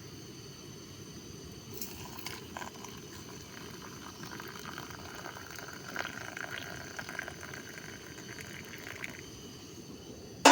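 Water sounds: a steady low rush with scattered light clicks and a stretch of trickling in the middle, ending on a sharp knock.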